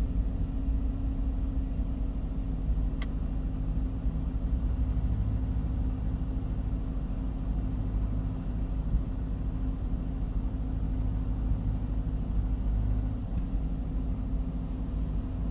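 Subaru Exiga's EJ20 2.0-litre flat-four engine idling steadily, with one short click about three seconds in.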